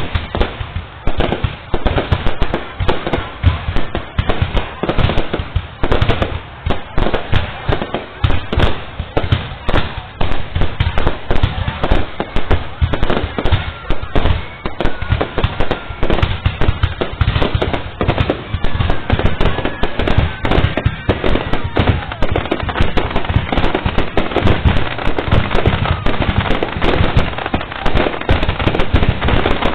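Fireworks display: a dense, continuous barrage of bangs and crackles, many per second, with no let-up.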